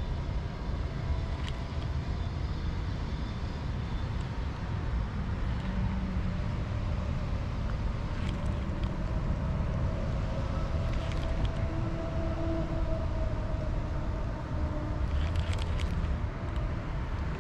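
Steady low rumble of outdoor background noise, with faint tones drifting in pitch through the middle.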